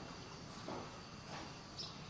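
A pause between phrases of an Oriental magpie-robin's song: faint steady hiss, with a short faint high note from the bird near the end.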